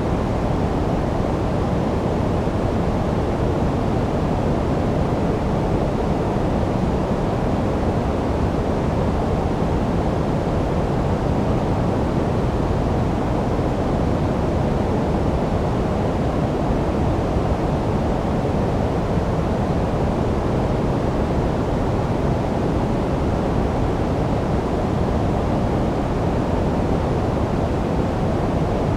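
Steady synthetic sleep noise, sold as white noise: a constant, even hiss weighted to the low end, so it sounds deep and muffled with little treble.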